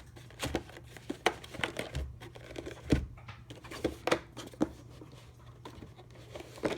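Packaging being handled as a tight sleeve is worked off a box: rustling and scraping with scattered knocks and clicks.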